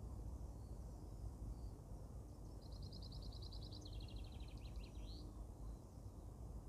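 Quiet garden ambience with a low steady rumble. A little after two seconds in, a songbird sings one song: a fast trill of repeated notes that steps down to a lower trill and ends in a short rising flourish.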